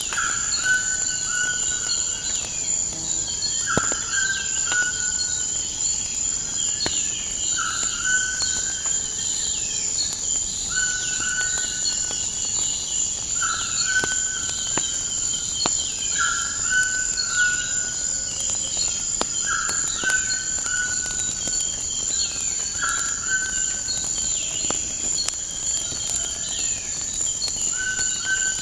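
Steady high-pitched insect drone with a bird repeating a short call about every two seconds, over scattered small clicks and pops of a crackling fire.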